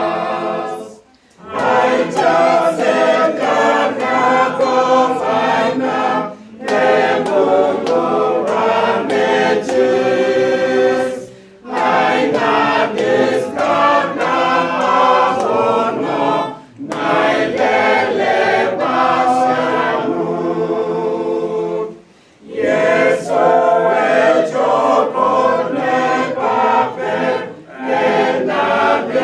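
A choir singing unaccompanied in long phrases, each cut off briefly about every five seconds before the next phrase begins.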